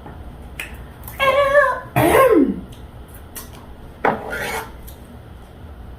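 A woman's wordless vocal sounds while eating: a held pitched "mm" about a second in, then a falling "mm" glide, and a short noisy burst about four seconds in, over a low steady hum.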